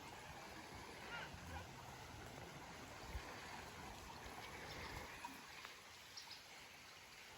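Faint, steady rush of flowing river water, with a soft low thump about three seconds in and a few faint clicks.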